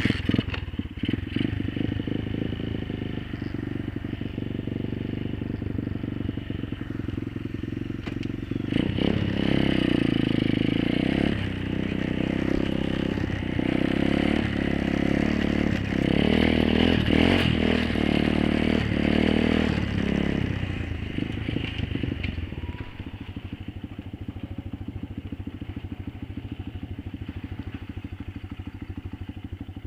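Apollo 125cc pit bike's single-cylinder four-stroke engine running, pulling harder with a rising and falling pitch from about nine seconds in to about twenty-one seconds, then dropping back to a lower, steadier run.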